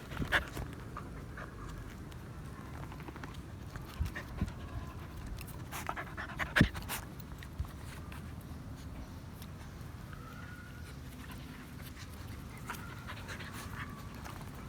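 A dog panting steadily, with a few short knocks and clicks, the loudest about six and a half seconds in.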